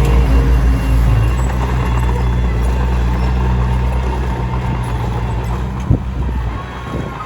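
Komatsu D21P bulldozer's diesel engine running steadily under work, easing off somewhat in the last seconds, with a single sharp knock about six seconds in.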